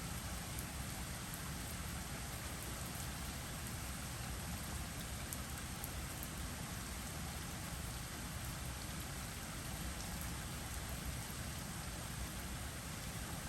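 Heavy typhoon rain falling steadily: an even, unbroken hiss with a few faint drip ticks.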